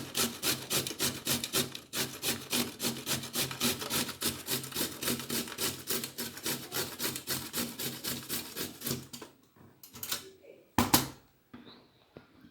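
A carrot being scraped in quick, even rasping strokes, about five a second, that stop about nine seconds in. A single sharp knock follows a little later.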